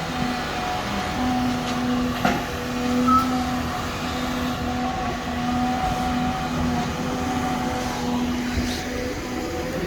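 Diesel engine of heavy earthmoving equipment running steadily at a constant speed, with a sharp knock about two seconds in.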